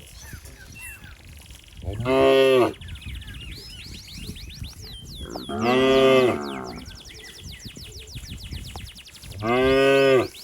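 A young cow mooing three times, about four seconds apart, each call a short rising-and-falling low moo; it is calling for its mother.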